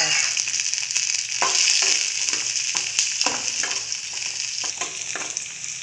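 Chopped onion, garlic and ginger sizzling in hot oil in a metal kadhai while a steel ladle stirs them, scraping and knocking against the pan now and then.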